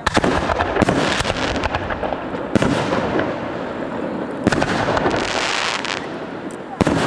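A fireworks display with aerial shells bursting: about five loud bangs, crackling in between, and a hissing, crackling shower about five seconds in.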